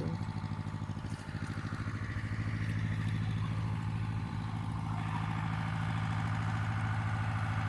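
Farm tractor's diesel engine running steadily at a low, even speed.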